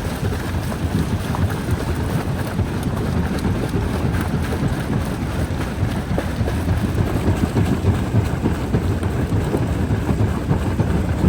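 Rock-crushing jaw crusher running under load: a steady, heavy low rumble with a continual crackle and clatter of breaking stone.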